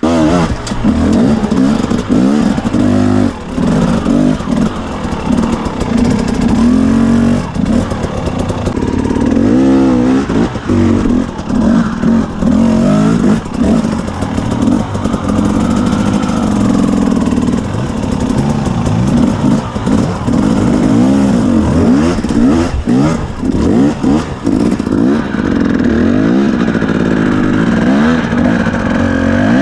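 Two-stroke engine of a KTM 250 EXC dirt bike being ridden off-road, revving up and down over and over with short throttle-offs between bursts.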